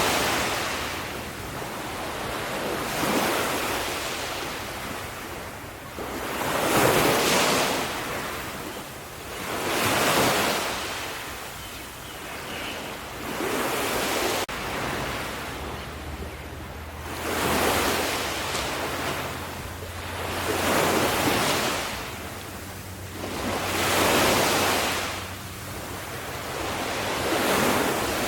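Sea waves breaking on a shore: a rush of surf swells and falls back about every three to four seconds.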